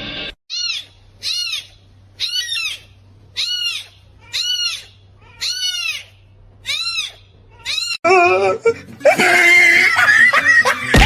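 An animal's high-pitched call, repeated about eight times at a steady pace of roughly one a second, each call rising and then falling in pitch. Near the end a louder, dense jumble of high cries takes over.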